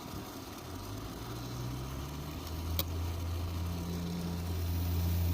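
A machine hum starts about a second in, then steps up in pitch and grows louder as it settles into a steady drone. One sharp click comes near the middle.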